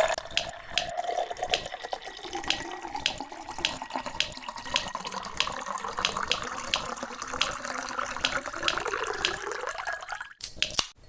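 Water running steadily from a tap into a sink or bowl, with light clicks about twice a second. It cuts off suddenly near the end.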